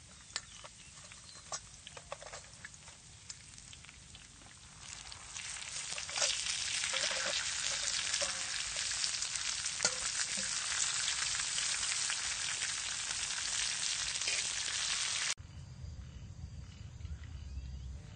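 Chopped garlic and greens sizzling and crackling in hot oil in a large wok, with scattered pops. About six seconds in the sizzling jumps much louder as scorpions are dropped into the oil to fry, then cuts off suddenly about fifteen seconds in.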